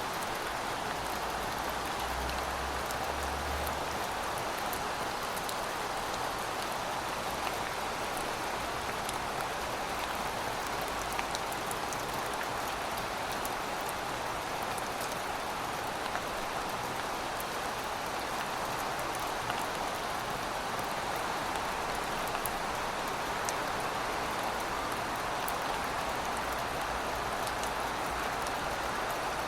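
Steady rainfall: an even hiss of rain with scattered fine drop ticks.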